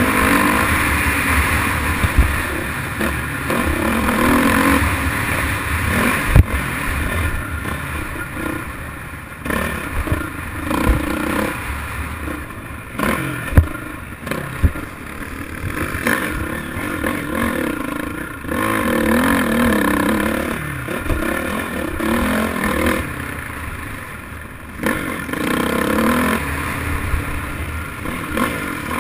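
Motocross dirt bike engine revving up and down in repeated surges, with several sharp knocks.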